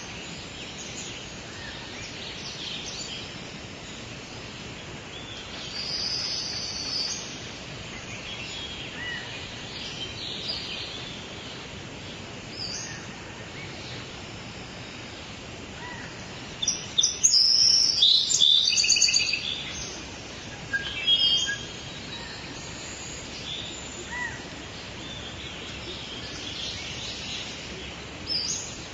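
Several birds chirping and calling over a steady background hiss, with a burst of loud, rapid chirping about two-thirds of the way through.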